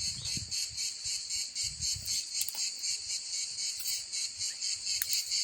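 High-pitched chorus of insects chirring continuously with a rapid, even pulsing, and a faint low rumble underneath.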